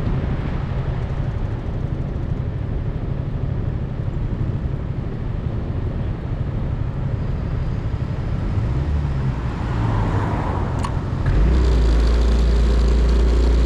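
Motorcycle engine running while riding along a road, with road and traffic noise. The low rumble steps up louder about eleven seconds in.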